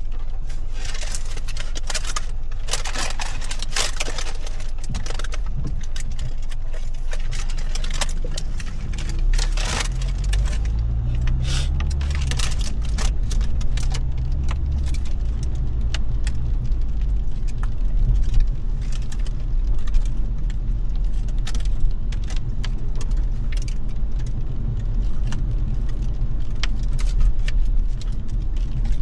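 A car driving, heard from the cabin: a steady low road and engine rumble, with the engine note rising as it accelerates about ten seconds in. Irregular sharp clicks and light rattling are scattered throughout.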